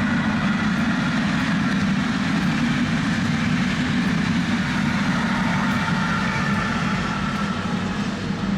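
A steady, vehicle-like rumble with a hiss over it, holding level without any clear rhythm and easing off near the end.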